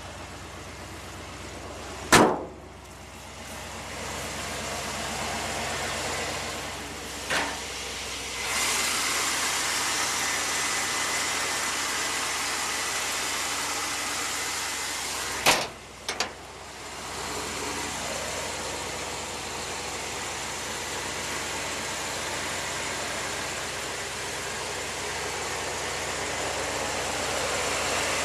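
1956 Dodge H-series truck engine running steadily at idle, growing louder and hissier about eight seconds in. Sharp knocks or clicks sound once near the start, once faintly around seven seconds, and twice in quick succession around fifteen seconds.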